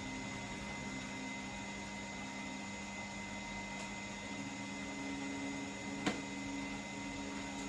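A steady mechanical hum with a few constant tones, and a single sharp click about six seconds in.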